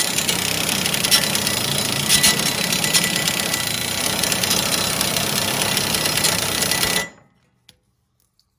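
Pneumatic air ratchet running continuously as it tightens a mower blade bolt. It stops suddenly about seven seconds in.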